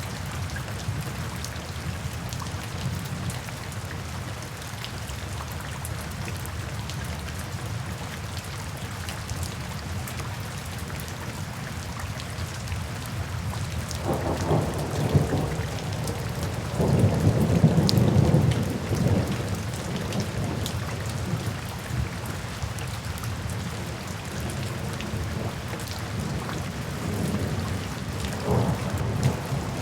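Steady rain falling, with a low rumble of thunder that rises about halfway through, swells to its loudest a few seconds later and fades; a shorter, fainter rumble comes near the end.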